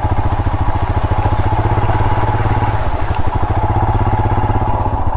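Royal Enfield Himalayan's 411 cc single-cylinder engine running at low speed, a steady, even train of firing pulses.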